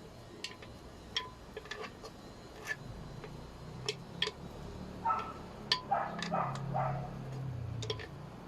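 Irregular light clicks and clinks, a few ringing briefly, like kitchenware knocking together.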